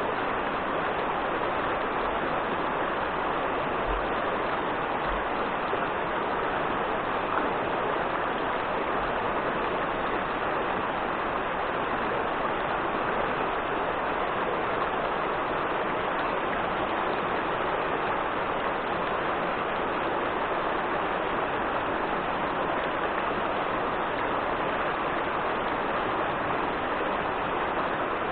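Steady rush of river water over rapids or a waterfall, an even hiss with no break or change.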